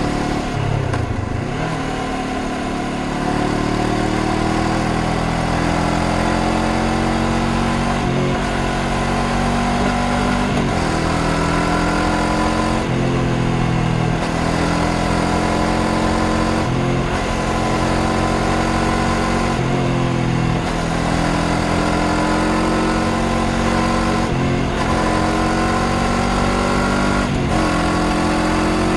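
A Honda CBR500R's parallel-twin engine under way on the road. The revs repeatedly climb and drop back every few seconds, as the bike accelerates and changes gear, with wind noise over the top. Near the start the revs fall away briefly before building again.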